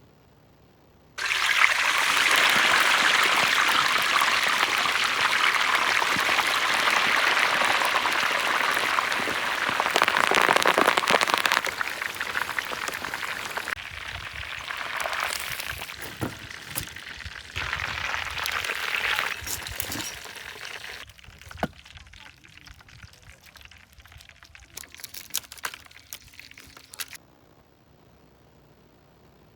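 Water pouring in a steady hissing stream, which starts suddenly and is loudest for about ten seconds. It then gives way to quieter, uneven splashing with scattered clicks and knocks, and cuts off shortly before the end.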